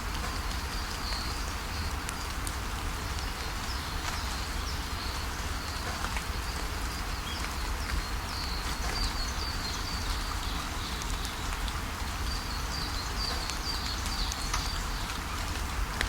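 Steady rain falling on leaves, with small birds calling over it in quick series of short, high chirps, most busily about halfway through and again toward the end.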